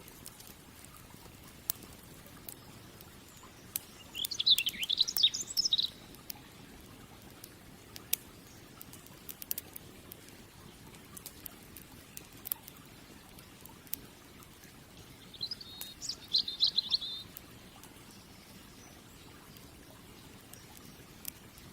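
Wood fire crackling with scattered sharp pops, while a songbird sings two short warbling phrases, about four seconds in and again about fifteen seconds in.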